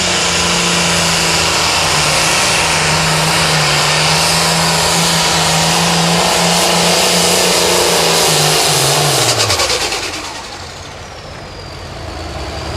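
Turbocharged diesel pulling tractor running flat out and steady under load for about nine seconds, then the engine pitch drops and the sound falls away as the pull ends. Afterwards a high turbo whine falls and rises again as the engine picks back up.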